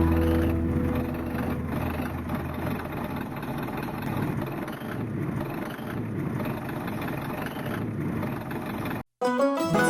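Radio-controlled model truck running, its small electric motor and gears giving a steady grainy whir. It cuts off abruptly near the end.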